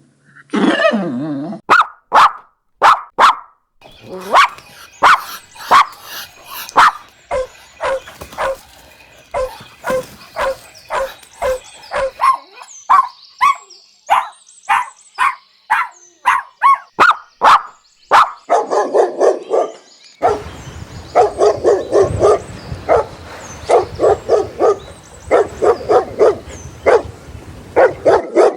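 Puppies barking over and over in short, sharp barks. About two-thirds of the way through the barking turns into a quicker, lower run of barks over a steady background hiss.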